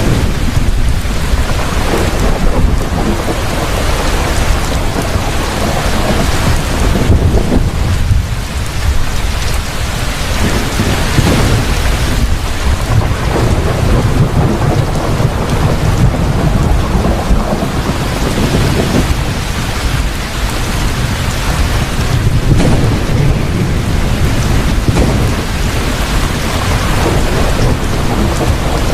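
Heavy rain falling steadily, with thunder rumbling low underneath.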